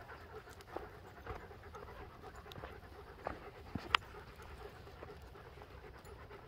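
Dogs panting faintly, with a couple of sharp clicks a little past halfway.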